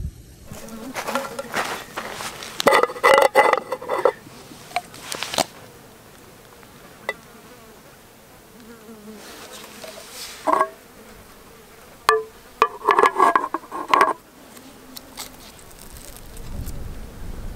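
An insect buzzing in short, wavering passes, loudest about three seconds in and again around thirteen seconds in, with a few light clicks in between.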